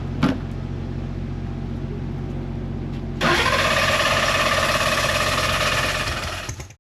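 A vehicle engine runs low and steady, with a single click just after the start. About three seconds in, a much louder, steady engine sound starts suddenly and holds until it is cut off abruptly near the end.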